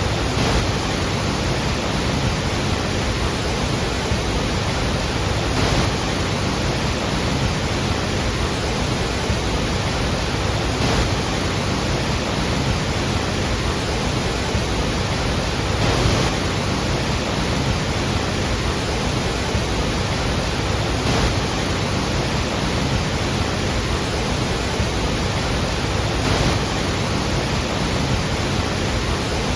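Iguazu Falls: a large mass of water falling, a steady, dense rushing noise with no let-up. Faint brief swells come about every five seconds.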